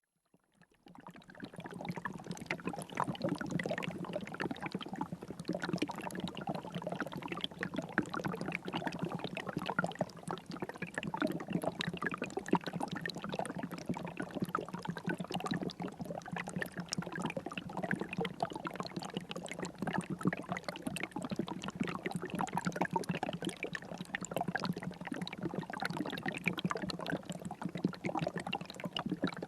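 River water flowing and trickling steadily, fading in over the first second or two.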